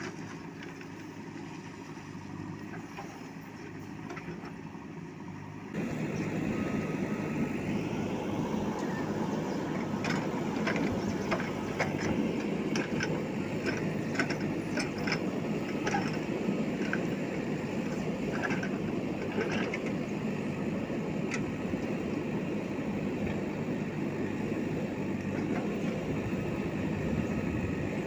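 Backhoe loader's diesel engine running steadily, turning abruptly louder about six seconds in, with scattered light knocks and clinks through the middle.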